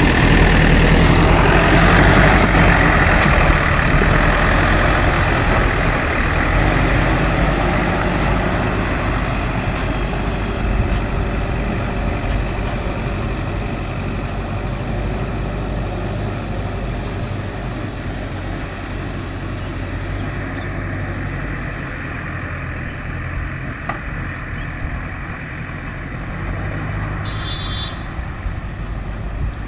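JCB backhoe loader's diesel engine running steadily, louder for the first several seconds and then easing to a lower level. A brief high beep near the end.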